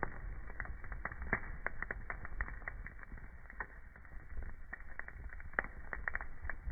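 Wood fire crackling: irregular sharp pops and snaps over a low steady rumble, with louder pops about a second and a half in and near the end.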